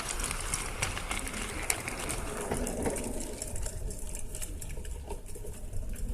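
LGB garden-scale model train running on outdoor track, its wheels clicking over the rails; the clicking thins out after about three seconds, over a steady low rumble.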